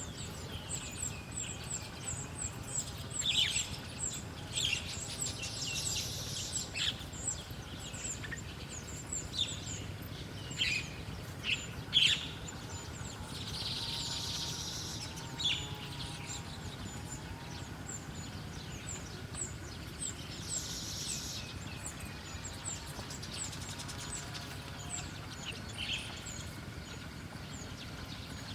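Small wild birds chirping: many short, sharp calls, some in quick runs of two or three, over a steady high-pitched ticking.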